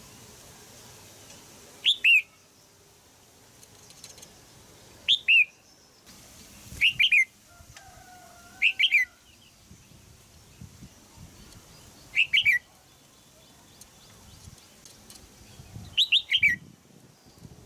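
Female red-whiskered bulbul giving short, sharp chirping calls. There are six bursts of two to four quick descending notes each, several seconds apart.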